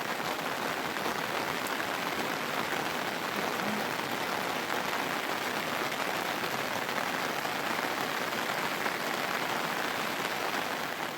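Heavy monsoon rain falling steadily, an even, unbroken hiss of drops.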